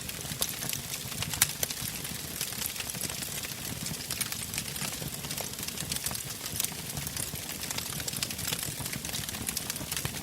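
Fire burning in a fireplace, crackling with many irregular sharp pops and snaps over a low rumble of the flames, with one louder pop about a second and a half in.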